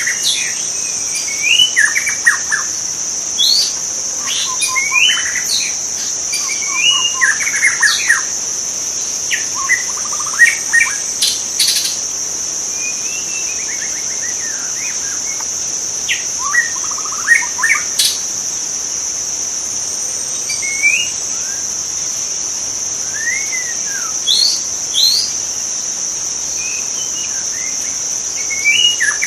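White-rumped shama singing in bursts of varied, gliding whistled phrases with short pauses between them. Over it runs a steady high-pitched insect drone.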